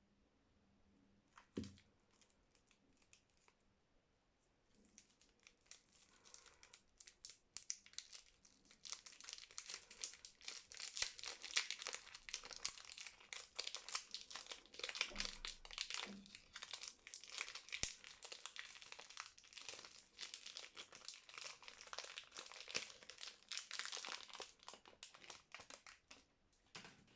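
Soap wrapper being unwrapped by hand: dense crinkling and crackling of the packaging, with some tearing. It starts after a light knock and a few seconds of quiet, builds up, and stops just before the end.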